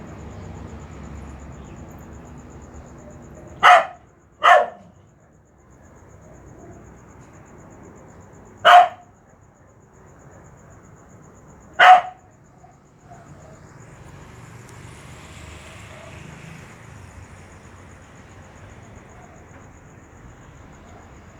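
A dog barking: four short, loud barks, two in quick succession about four seconds in, then one near nine seconds and one near twelve, over a faint steady background noise.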